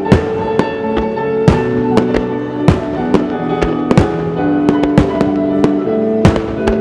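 Aerial firework shells bursting in quick succession, a dozen or so sharp bangs about every half second, over music with sustained melodic tones played for a music-synchronised fireworks display.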